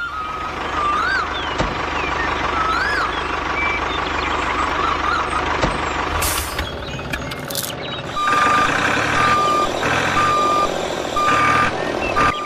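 Vehicle engine running steadily, with a few short rising-and-falling whistles. About two-thirds in, a reversing alarm starts beeping about once a second as the vehicle backs up.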